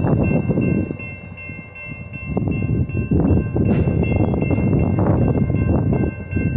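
Diesel locomotive's multi-chime air horn held on one steady chord, over loud rumbling noise that eases off briefly about a second in.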